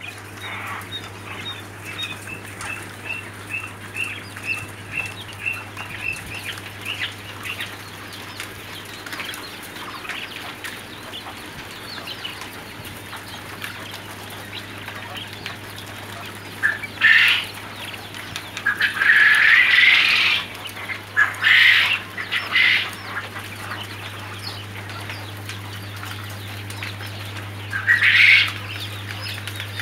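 Domestic poultry calling: a quick run of high, evenly spaced peeps in the first several seconds, then louder calls in clusters past the middle and again near the end, over a steady low hum.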